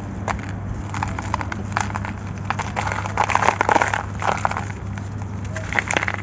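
Dry sand-cement or concrete chunks being crushed and crumbled by hand, with irregular gritty crunches and crackles, densest about halfway through, over a steady low hum.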